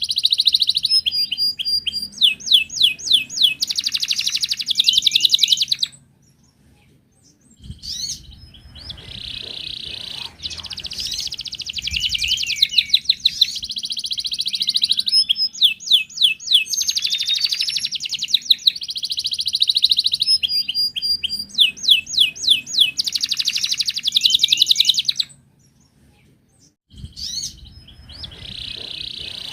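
Canary singing long, fast phrases of rapid trills and rolling repeated notes. The song breaks off twice for about a second and a half.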